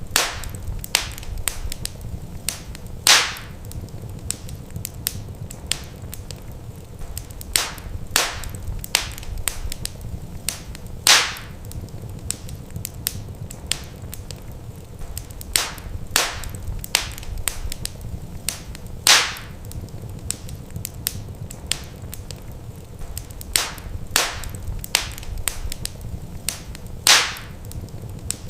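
Wood fire crackling in a fireplace: irregular sharp pops and snaps, a few much louder than the rest, over a steady low rumble.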